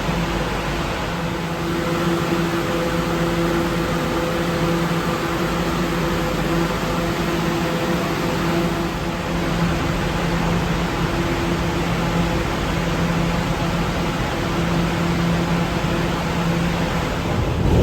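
Steady hum and hiss of an R211 subway train, a few even tones under a constant rush of noise; a louder low rumble comes in near the end.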